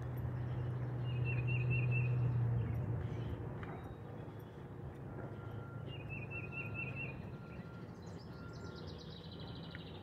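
Songbirds calling in woodland: a short rapid trill twice, about a second in and again about six seconds in, and a run of falling notes near the end. Under the birds is a low steady hum, loudest in the first three seconds.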